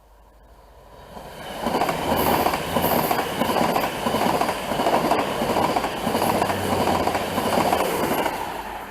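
Train passing close by: it builds out of near quiet over the first couple of seconds, runs past loudly with wheels on the rails for about six seconds, then begins to fade near the end.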